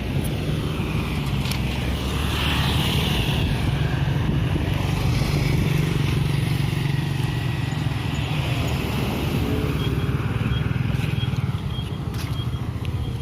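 A motor vehicle engine running steadily, with road noise, louder a few seconds in.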